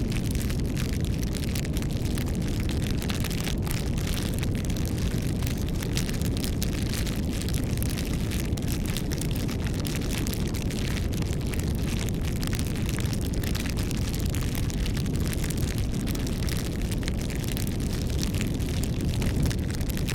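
Campfire burning: a steady low rumble of the fire with frequent small crackles and pops throughout.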